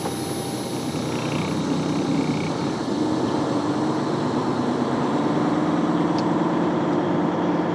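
Semi-truck's diesel engine running as a steady low drone that grows slightly louder about halfway through.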